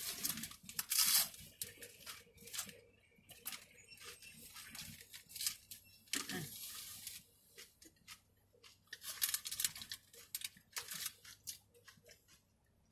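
Eating sounds: crunchy bites and close-up chewing of a Doritos taco shell, with the paper wrapper rustling in the hands now and then.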